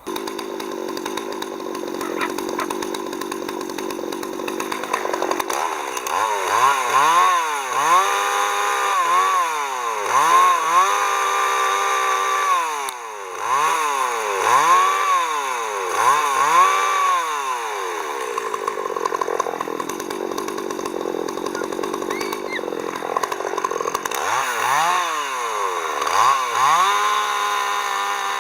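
Gasoline chainsaw engine running, revved up and down over and over in quick succession, then running steadier before another few revs near the end.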